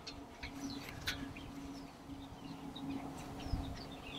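Faint, scattered chirps of small birds over a low steady hum.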